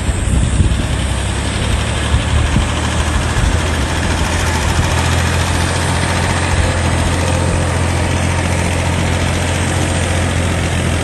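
Tractor engine running with a deep, steady drone.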